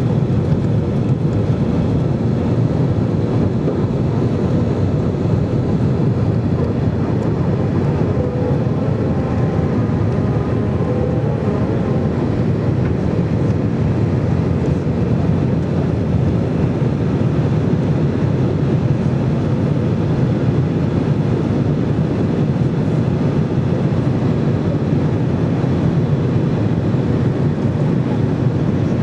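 Steady low rumble of an Airbus A320's jet engines and airflow, holding constant without rising or falling.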